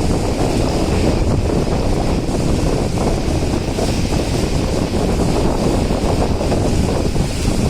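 Wind buffeting the microphone from a moving train, over the steady rumble of the train running.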